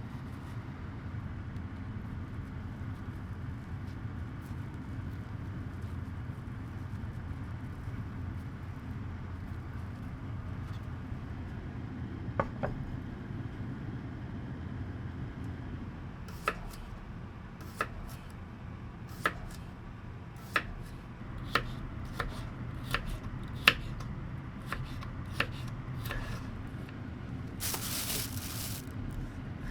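Kitchen knife chopping on a cutting board: about ten slow, unevenly spaced strokes starting a little past halfway, over a steady low hum. Near the end there is a brief rustling hiss.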